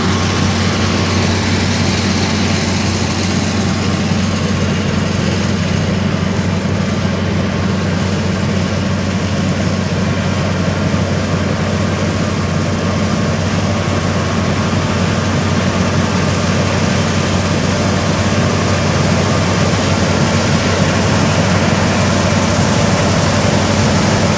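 Combine harvester running with a steady, loud engine drone, getting slightly louder near the end.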